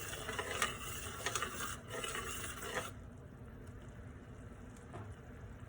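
Utensil stirring sauce in a pan, with a few light clicks of the spoon against the pan. About three seconds in, the hiss drops away and it goes quieter.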